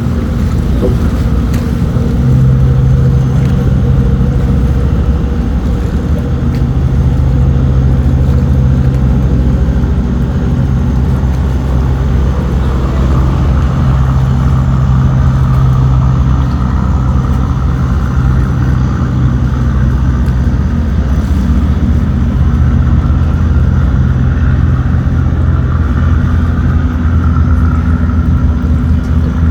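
Tugboat's diesel engine running steadily under load while towing loaded cargo barges against the current: a loud, even, low drone.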